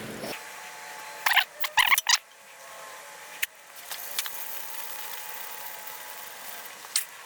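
Hand tools being handled while working on a dirt bike: a quick run of sharp clicks and knocks about a second in, then a few single clicks later.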